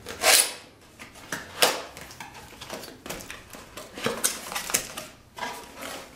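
Cardboard camera box being opened and its contents handled: irregular rustles, scrapes and light knocks of cardboard and paper, loudest just after the start and again around the middle.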